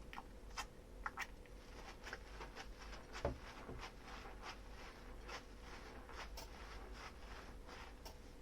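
Dishes and utensils being handled and scrubbed during hand washing: a string of soft clicks and light clinks, with one heavier knock about three seconds in.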